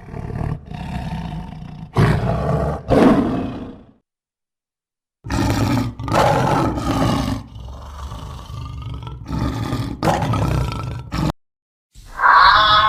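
Big cat roaring: a series of long, rough roars, broken by a silent gap about four seconds in and then resuming.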